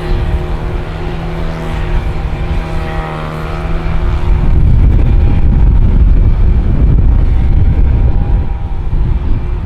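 Airliner passing low overhead: steady engine tones at first, giving way about four and a half seconds in to a loud, rushing roar.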